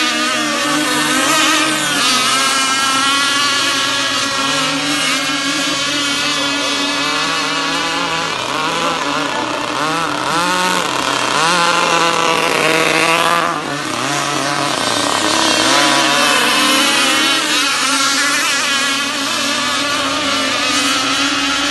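Several radio-controlled powerboats with two-stroke petrol engines racing together, their high-pitched engines constantly rising and falling in pitch as they throttle and pass.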